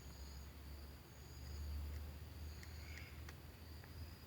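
Faint insects chirring in short repeated spells over a steady low hum, with a few light ticks near the end.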